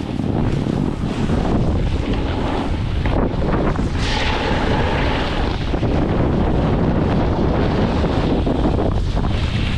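Loud, steady wind buffeting the microphone of a camera carried by a rider going downhill at speed.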